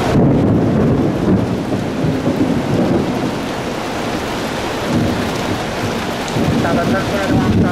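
Thunder rumbling over steady rain. The rumble swells right at the start, eases off in the middle and builds again near the end.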